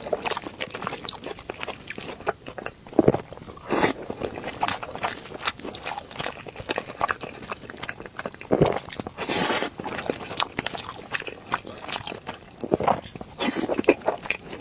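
Close-miked eating sounds of tomato and egg rice being chewed: many wet mouth clicks and smacks, with a few louder bites scattered throughout.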